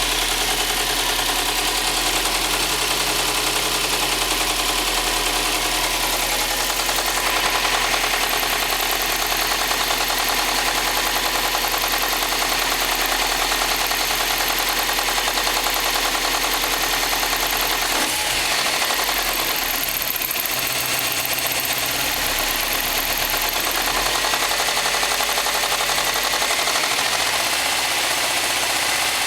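Subaru STi turbocharged flat-four engine running at idle with a steady knocking noise that sounds like rod knock or piston slap but comes from a bad accessory belt tensioner.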